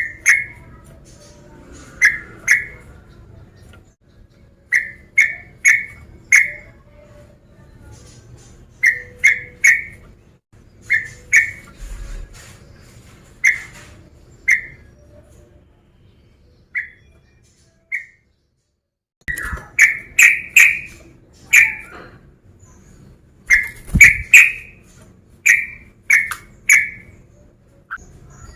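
Yellow-vented bulbul (trucukan) calling: loud, short bubbly notes in quick clusters of two to four, repeated every second or two. A quieter stretch just past the middle has only two single notes.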